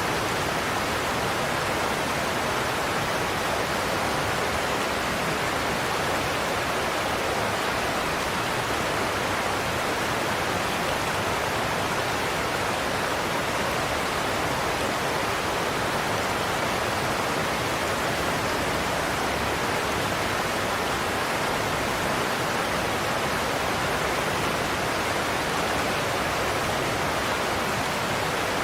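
Large waterfall rushing, a steady, even roar of falling water with no breaks or changes.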